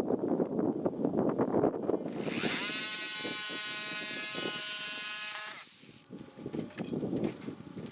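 An electric power tool's motor spins up about two seconds in with a rising whine, runs steadily for about three seconds and winds down, during the cutting-out of rotted wood from a chicken coop. Before it, scraping and rattling of handling the tool and wood; after it, light clicks and knocks.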